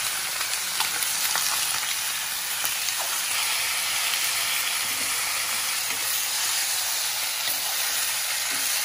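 Chicken pieces sizzling steadily as they fry in a steel wok, stirred with a metal ladle that adds a few faint scrapes and clicks.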